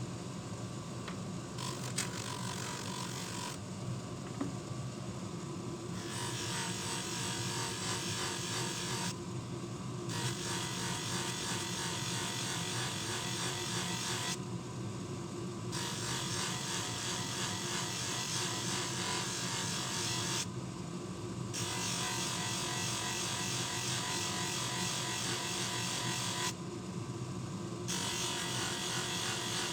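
Abrasive rubbing, as in sanding or polishing a small part, in long passes broken by short pauses every five to six seconds, over a steady low hum.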